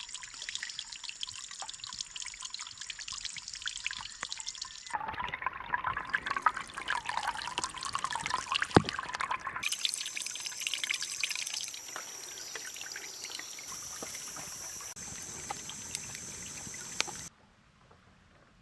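Short spliced clips of outdoor sound: trickling water for the first half, then a steady high-pitched hum of several held tones that cuts off suddenly near the end.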